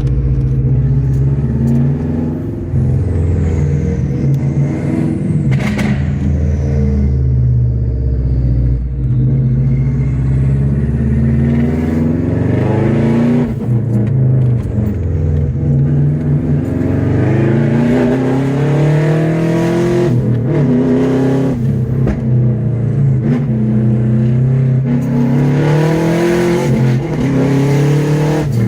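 Subaru Forester SF5 turbo's flat-four engine revving through an open, straight-through exhaust. The pitch climbs and drops again several times as the throttle is blipped and released.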